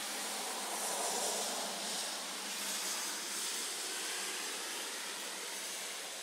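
Steady hiss of falling rain, swelling a little about a second in and easing off over the following few seconds.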